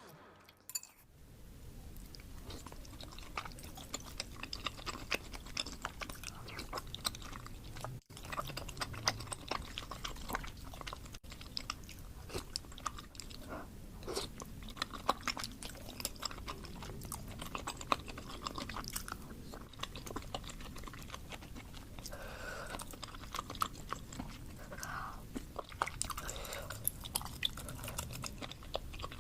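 Close-miked ASMR chewing and biting of spicy baso aci (chewy tapioca balls in broth): a steady stream of wet mouth clicks and smacks at an irregular pace.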